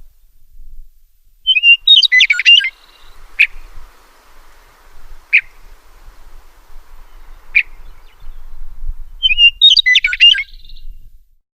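A songbird singing two short, rapid, warbled phrases about seven seconds apart, with single sharp call notes roughly every two seconds in between.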